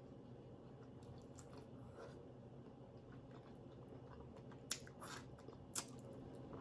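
Quiet eating sounds close to the microphone: soft chewing, with a few short wet mouth clicks and smacks in the second half.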